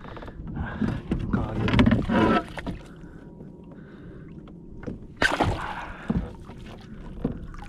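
Water splashing and sloshing at a fishing kayak as a large kawakawa is landed, with a sharp splash about five seconds in.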